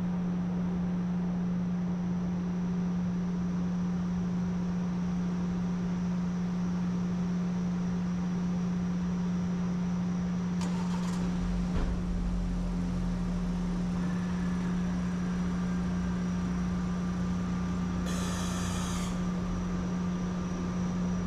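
A steady, even low hum, like a running machine, with a brief hiss about eighteen seconds in.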